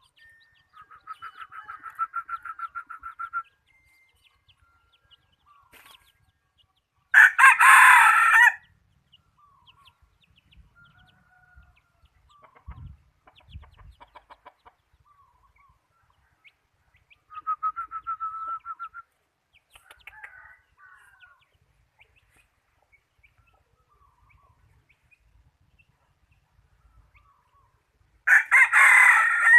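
Decoy red junglefowl rooster crowing twice, one short loud crow about seven seconds in and another near the end. Between the crows come two runs of rapid, evenly pulsed clucking calls, one near the start and one a little past halfway.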